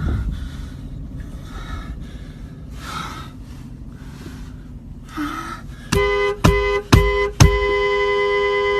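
Car running with a low rumble, then about six seconds in its horn sounds: three short honks followed by one long held blast of the two-note horn.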